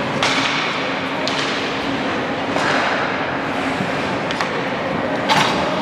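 Ice hockey play echoing in an arena: a steady rink hiss broken by sharp clacks of stick and puck, four in all, the loudest near the end.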